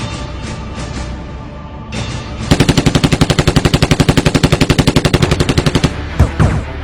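A long burst of automatic gunfire, in the style of a film sound effect, starts about two and a half seconds in. It fires about twelve rapid, even shots a second for some three seconds, over background music.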